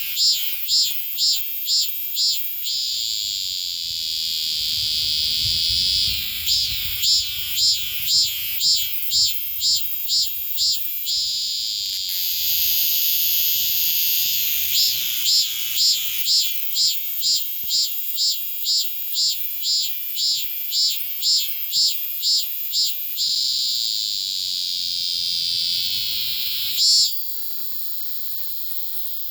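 Cicada singing at close range: runs of sharp, high-pitched pulses about three a second alternate with a long continuous buzz. The song cuts off suddenly near the end.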